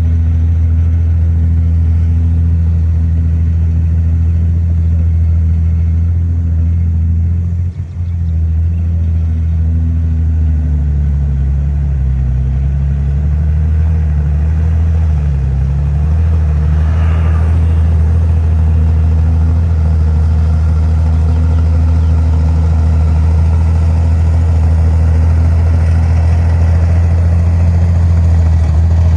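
Heavy diesel engine of earthmoving machinery running steadily and loud, its pitch dipping and recovering several times near the middle as the load changes.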